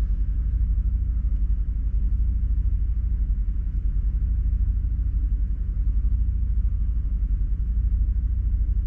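Toyota Tundra pickup engine idling, heard from inside the cab as a steady low rumble.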